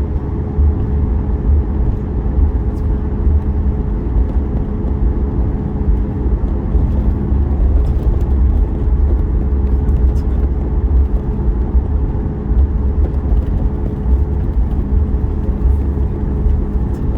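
Cabin noise of a Boeing 737 MAX 8 taxiing: its CFM LEAP-1B engines running at taxi power with a steady low rumble and a steady hum.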